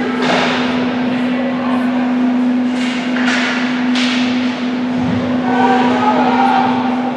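Ice hockey skates scraping and carving across the ice in sharp hissing strokes, several times, over a steady low hum, with faint shouts from players near the end.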